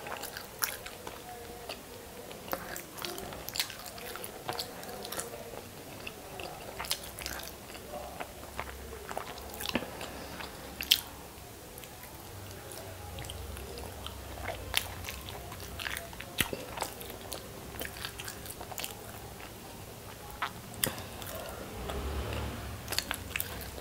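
A person biting and chewing masala-coated hard-boiled eggs close to the microphone, with irregular mouth clicks and smacks throughout.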